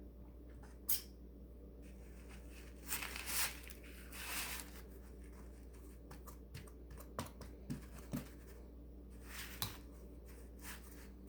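Loose bird seed rustling and clicking as a peanut-butter-coated cardboard tube is rolled through it: a few short rustles among scattered small clicks.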